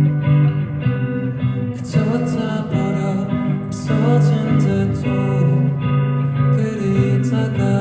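A rock band playing live, guitar-led over a steady bass line, with cymbals entering about two seconds in.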